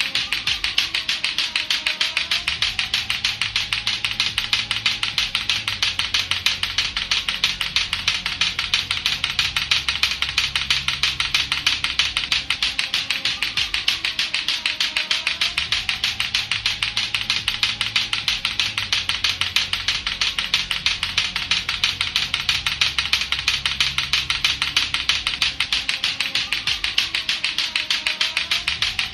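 Latto-latto clacker balls, two hard plastic balls on a string, knocking together in a fast, steady, unbroken run of sharp clacks.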